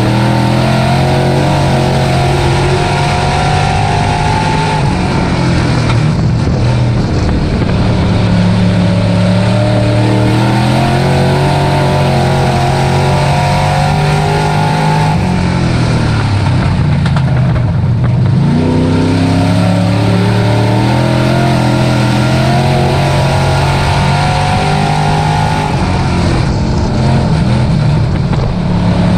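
Dirt-track race truck engine running hard, rising in pitch as it pulls and dropping briefly when the throttle is lifted, three times, about every ten seconds, as for the turns of a lap.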